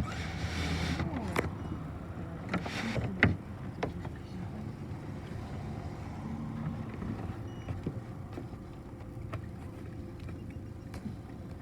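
Cabin noise inside a city bus: a steady low rumble from the engine and running gear with scattered rattles and clicks. Two short hissing bursts come in the first three seconds.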